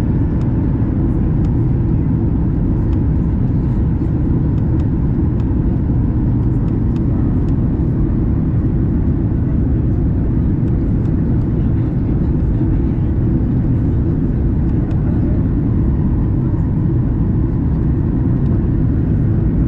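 Steady cabin noise of a Boeing 737 MAX 8 in flight during descent, heard from a window seat: a loud, even low rumble of airflow over the fuselage and the CFM LEAP-1B engines, with a few faint ticks.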